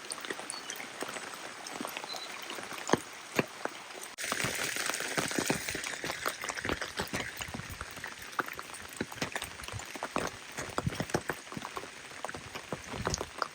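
Rain falling, with many separate drops tapping close by. About four seconds in, a louder rush of water hiss starts suddenly and fades away over the next few seconds while the drops go on.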